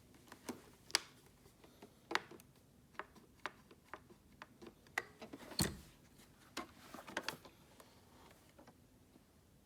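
Scattered light clicks and knocks at irregular intervals, as of small hard objects being handled, with a heavier knock about halfway through.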